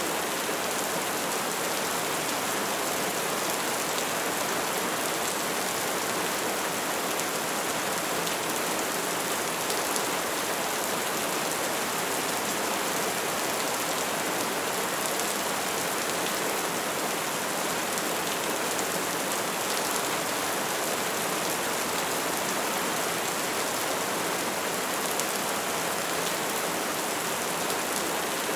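Soft rain falling steadily, an even hiss with faint individual drop ticks.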